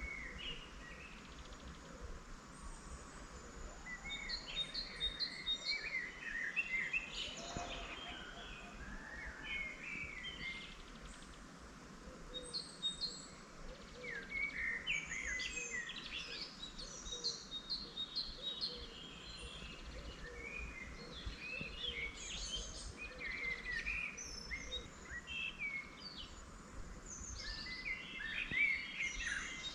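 Several songbirds singing and calling at once, overlapping chirps and short repeated note series, over a steady low background rumble.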